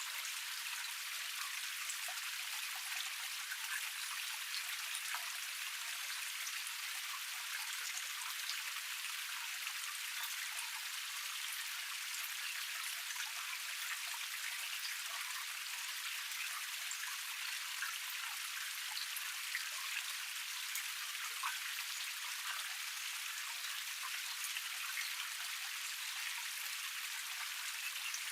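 Small forest waterfall cascade: water spilling and splashing steadily over rocks, a continuous hiss with no deep rumble, dotted with fine droplet patters.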